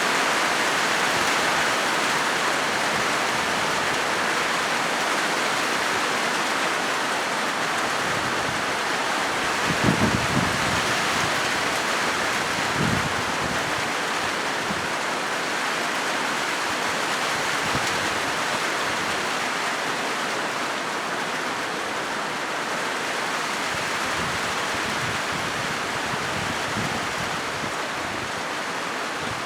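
Rain falling steadily on a corrugated metal roof: an even, continuous patter-hiss. A couple of brief low thumps come about ten and thirteen seconds in.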